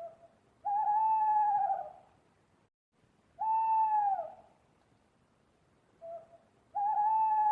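An animal calling three times, each a long clear pitched note of about a second that falls away at the end, with a short lead-in note before the first and last.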